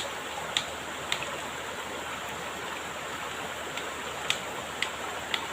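Steady rush of flowing stream water, with a short sharp tick repeating about twice a second that drops out for a couple of seconds midway.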